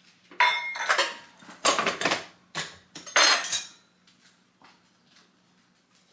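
A measuring cup and utensil clinking and scraping against dishes as the last half cup of bread flour is scooped, levelled and tipped in: several quick clatters over about three seconds, then quiet.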